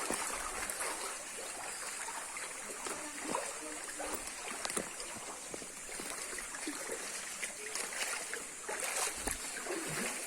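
People wading on foot through a shallow, rocky stream: irregular splashing steps over the sound of running water.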